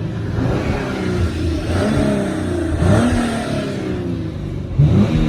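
2015 Hyundai Genesis Coupe's 3.8-litre V6 revved in blips while parked, the engine note rising and falling back a couple of times, through the factory exhaust.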